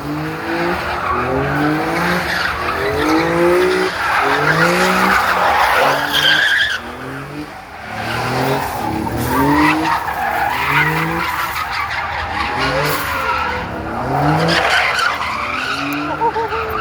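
Car engine revved hard again and again, each rev a quick rising pitch, over a steady screech of spinning, squealing tyres, as in a burnout.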